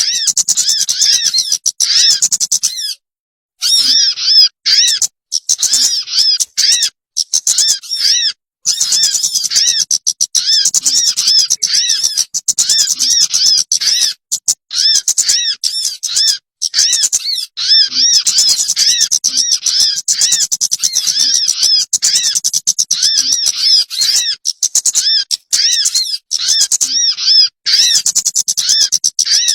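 Small bird's rapidly repeated high chirps from a bird-lure (pikat) recording, in long runs broken by a few short, sudden gaps.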